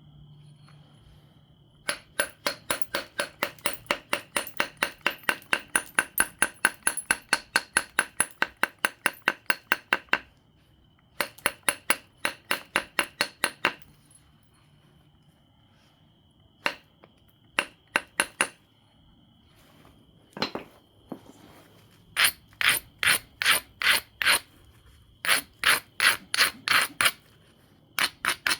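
Obsidian biface edge being ground with an abrading stone: quick back-and-forth scraping strokes, about four or five a second. There is a long run at first, then shorter bursts separated by pauses. Abrading the edge like this dulls and strengthens it as platform preparation before flakes are struck off.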